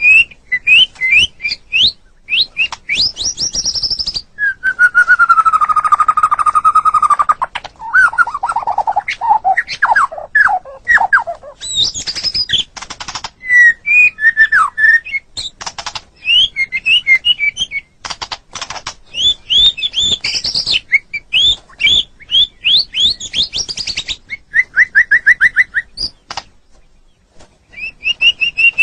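White-rumped shama (murai batu) singing a long, varied song of rapid whistled phrases, trills and chattering notes. About five seconds in comes a sustained lower whistle, followed by a run of quick downslurred notes.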